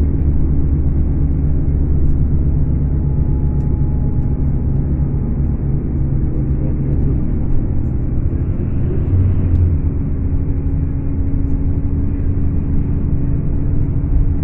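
Scania K410 coach's engine running under way, a steady low drone that shifts briefly about nine seconds in.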